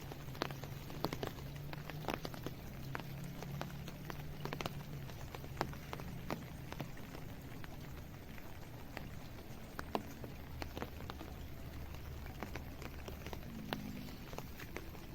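Raindrops tapping irregularly on hard surfaces close by, over an even rain hiss and a steady low hum.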